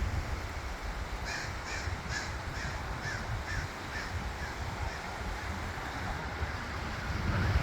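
A bird calling in a quick run of about eight calls, roughly two a second, fading out. Underneath is a steady low rumble of wind on the microphone.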